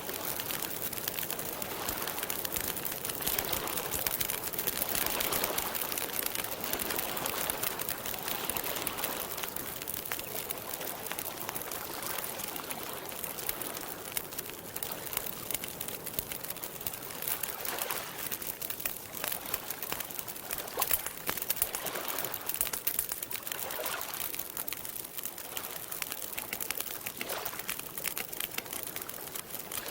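Campfire crackling with dense small pops over a steady hiss, with lapping water and occasional bird calls in the background.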